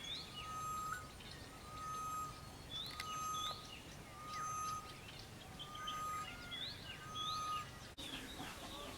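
Morning chorus of several birds: a short steady whistle repeated roughly once a second, with quick rising chirps and twitters above it. A grey-headed bush-shrike is calling among them.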